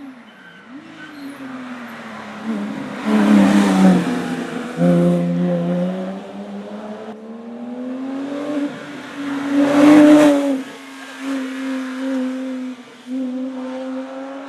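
Hill-climb race car's engine accelerating hard up the course, its pitch repeatedly climbing and then dropping with each gear change. It is loudest as it passes about three to four seconds in and again about ten seconds in.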